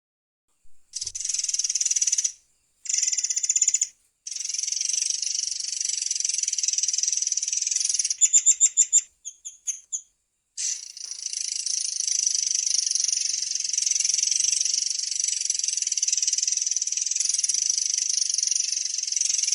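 Murai air (long-tailed sibia) singing its long, high-pitched rolling trill, broken by short pauses. Around 8 s it switches to a quick run of about eight separate loud notes, then goes back into one long unbroken trill from about 10 s on.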